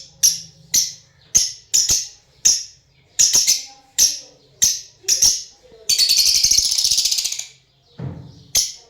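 Lovebirds giving a run of short, shrill chirps about twice a second, then one longer buzzy chattering call around six seconds in, and another chirp near the end.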